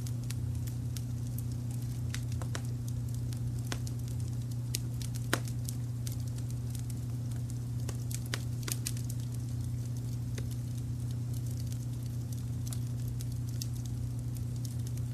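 Wood fire crackling, with irregular sharp pops and snaps, the loudest about five seconds in. It sits over a steady low rumble of added brown noise.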